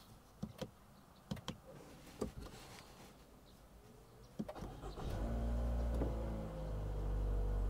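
A few light clicks and knocks, then, about four and a half seconds in, the 2015 Toyota Harrier's engine starts and settles into a steady idle with a faint whine.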